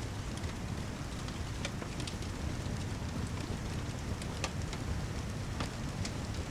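Steady heavy rain with a deep, even low end, mixed with scattered sharp pops of a crackling wood fire in a fireplace.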